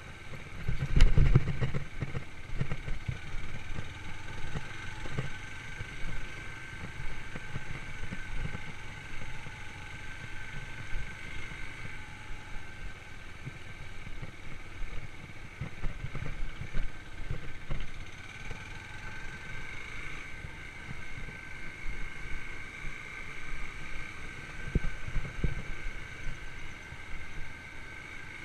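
Yamaha YBR125's single-cylinder four-stroke engine running steadily on the move, with irregular low knocks and one loud thump about a second in.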